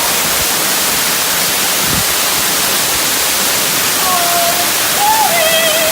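Waterfall rushing close by: a loud, steady, even rush of falling water.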